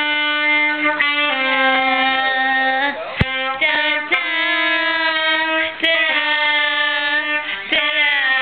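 A child playing a simple song on a musical instrument: a slow tune of steady held notes, changing about once a second, with a few short clicks between notes.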